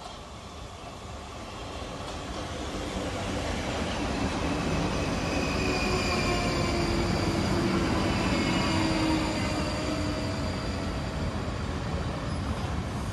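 South Western Railway electric multiple unit approaching and running past a station platform. The wheels rumble on the rails, growing louder over the first few seconds, with a high whine that drops slightly in pitch as the train goes by.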